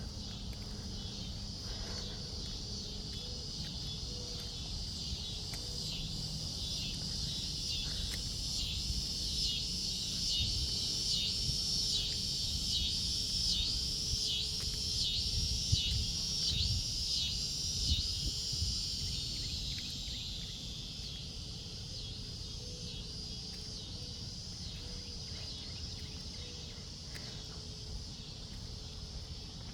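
Crickets chirping in a dense, high chorus that swells into regular pulses about a third of the way in, then eases back to a steadier trill.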